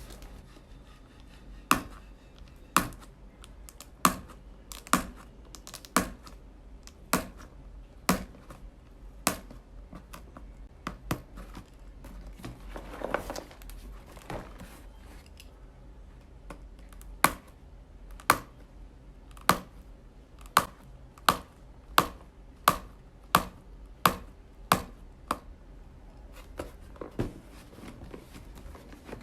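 A long series of sharp clicks, about one a second and somewhat quicker in the second half, with a short rustling patch about halfway through.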